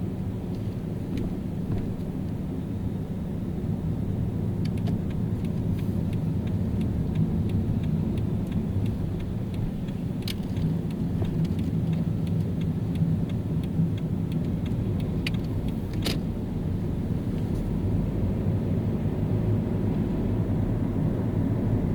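Car driving in city traffic: a steady low engine and road rumble, with a run of faint, evenly spaced ticks through the middle and a couple of sharp clicks.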